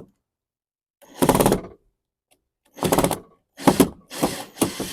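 A screwdriver working a hidden Phillips screw loose on a car's trim, in four short bursts of rapid mechanical rattling with pauses between.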